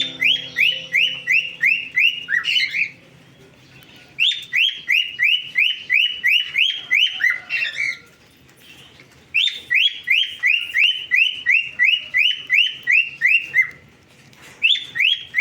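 Cockatiel calling: a rapid run of sharp, repeated chirping calls, about four a second. The calls come in three bouts of a few seconds each, with short pauses between them, and a fourth bout starts near the end.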